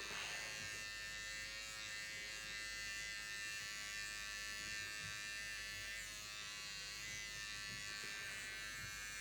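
Electric pet hair clippers running with a steady buzzing hum as they shave matted fur from a Yorkshire terrier's coat.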